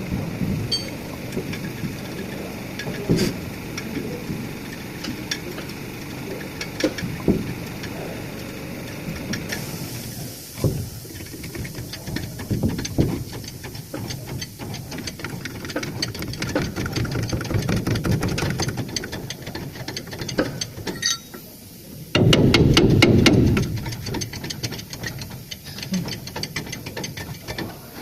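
Truck repair work on the torque rod bushings: scattered metal knocks and clinks, a fast steady ticking that starts about a third of the way in, and a loud low burst lasting about a second and a half near the end.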